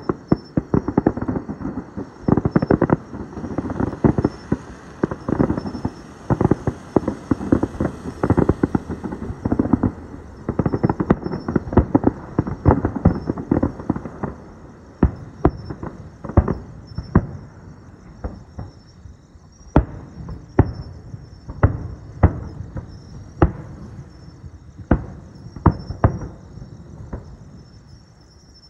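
Aerial fireworks bursting in a rapid barrage of overlapping booms and crackles. About halfway through the barrage thins to single sharp bangs, roughly one a second.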